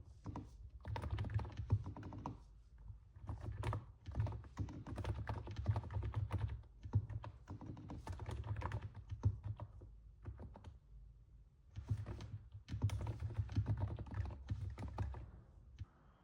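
Typing on a NIZ 68 Pro capacitive keyboard: quick runs of soft keystrokes, a sound likened to stepping on snow. The runs are broken by short pauses, the longest lasting a couple of seconds just past the middle.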